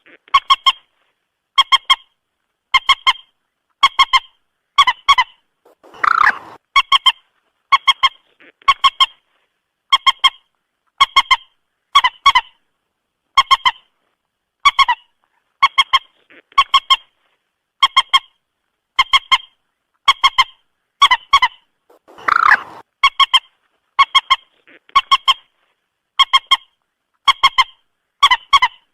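Common moorhen calling over and over, a short honking call of two or three quick notes about once a second. A fuller, harsher call breaks in twice, about a fifth of the way in and again about three-quarters through.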